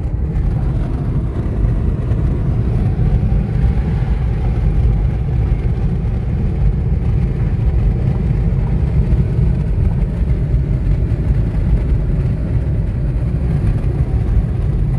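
Car being driven, with a steady low engine and road rumble and no marked revving.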